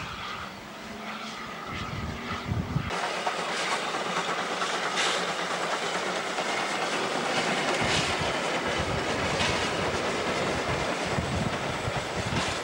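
Steam locomotive W901 hauling its train: a steady rushing noise of the moving train with scattered sharp knocks. The sound turns abruptly louder about three seconds in.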